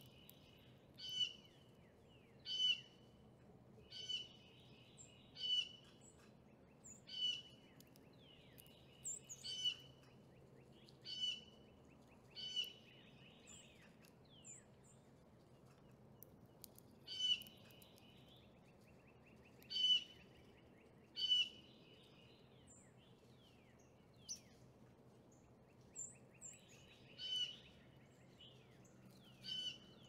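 A bird chirping over and over, short high calls roughly every second and a half with a brief pause midway, over a faint steady hum.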